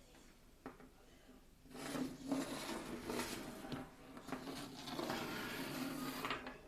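Battery-and-neodymium-magnet 'train' rattling and scraping as it runs through a bare copper wire coil, with a steady hum under the rattle; it starts about two seconds in, eases briefly in the middle, and stops shortly before the end.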